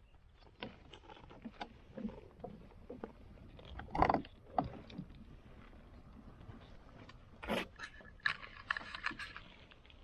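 Irregular knocks, clicks and scrapes of gear being handled, with a louder knock about four seconds in and another a few seconds later, then a short hiss near the end.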